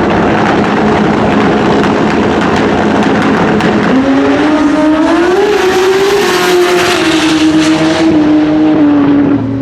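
Drag-racing motorcycle engines running hard at high revs, loud and crackling. About four seconds in, an engine note rises, holds, then slowly sinks.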